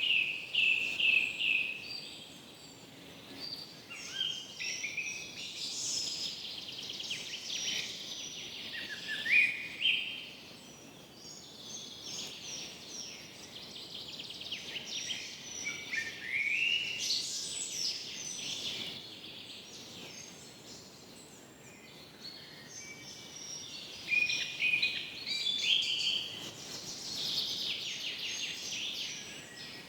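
Several birds singing at once in a forest: repeated chirps, short trills and rising and falling whistled phrases, over a faint steady background hiss. The calls come in clusters, loudest near the start, about nine seconds in, and again in the last few seconds.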